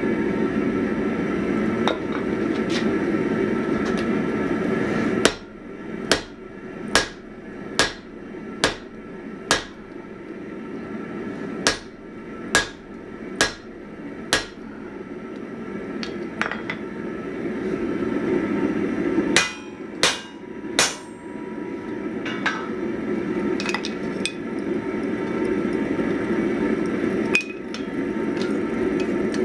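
Hand hammer striking hot 1045 steel on an anvil while forging an axe head, the blows ringing, in runs of several strikes about a second apart with short pauses between, then a few lighter taps. A steady rushing noise fills the first five seconds and swells back up in the second half.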